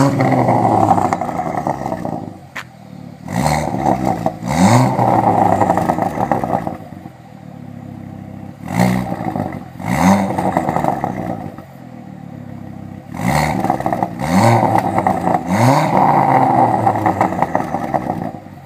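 Ford Focus ST 225's 2.5-litre turbocharged five-cylinder engine being blipped at standstill through a straight-through 3-inch Piper exhaust with a decat, running with no catalytic converter or resonator. The revs rise and drop back in quick pairs and threes, settling to a steady idle between them, with one sharp crack a couple of seconds in.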